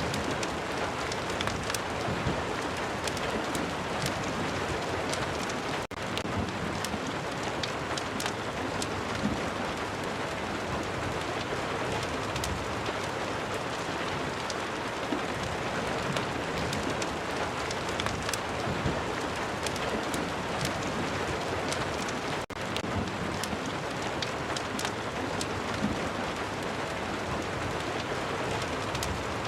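Steady heavy rain ambience, with scattered sharp ticks and crackles through it. The sound drops out for an instant twice, about six seconds in and again past twenty seconds.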